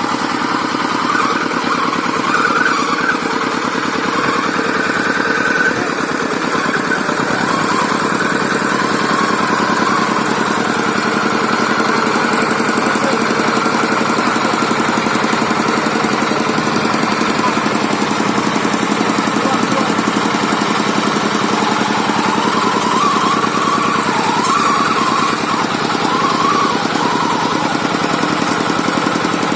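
Paddy-field tractor's engine running steadily under way, with an even, rapid firing beat.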